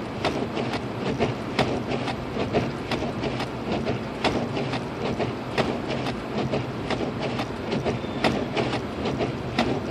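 Inside a 2006 Lexus IS250 AWD driving slowly on a snow-covered road: a steady drone of tyres and engine, with irregular clicks and knocks several times a second.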